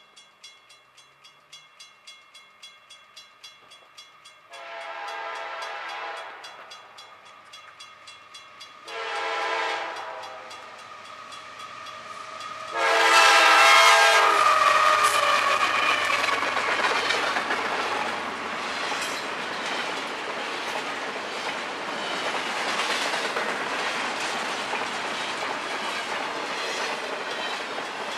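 A grade-crossing bell rings about twice a second, then a GE diesel freight locomotive sounds its horn in three blasts, each lasting one to two seconds. With the third blast the train reaches the crossing, and loud rumbling and wheel noise from the passing locomotives and cars continue to the end.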